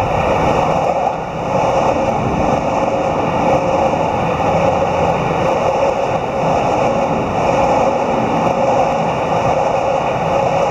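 Electric commuter train running along the tracks below and away, a loud steady running noise of wheels on rails with a faint hum.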